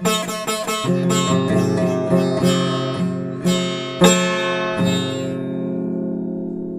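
Guitar played solo: quick picked notes, then strummed chords about three and a half, four and five seconds in, the last one left ringing out.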